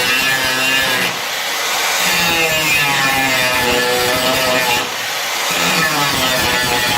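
Angle grinder grinding metal, its whine sagging and rising with the pressure on it, briefly easing off about a second in and again near five seconds. It is grinding off old welds on the car's body panels.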